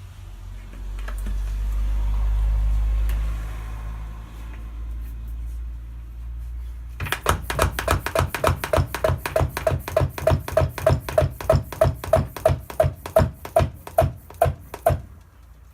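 A low rumble, then, about seven seconds in, a fast run of sharp ringing taps, about four to five a second and slightly quickening, which stops shortly before the end.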